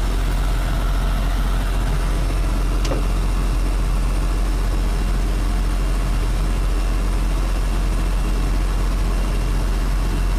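Steady, loud low engine rumble from an airliner pushback, with no change in level. A faint short tick about three seconds in.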